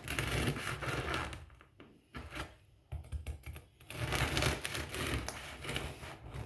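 Knife sawing through a French roll, in several bursts of dense crackly clicks with short breaks between cuts.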